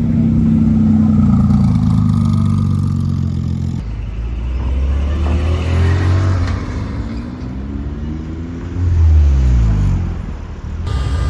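Porsche sports car engines: a steady engine note, then after an abrupt cut the engine revs, its pitch sweeping up and down, loudest about nine seconds in.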